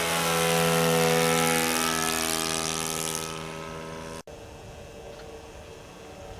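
ASP .61 two-stroke glow engine of an RC Cessna 182 running at high throttle, loudest about a second in and then fading away. The sound breaks off abruptly about four seconds in, leaving a fainter steady engine hum.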